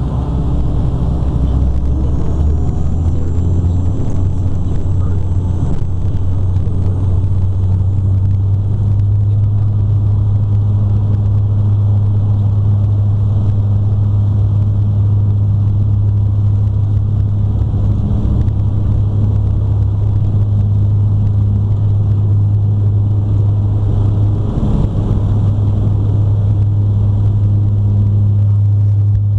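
Airliner engines heard from inside the cabin, spooling up for takeoff. A loud low drone climbs in pitch with a faint rising high whine over the first several seconds, then holds steady at takeoff power.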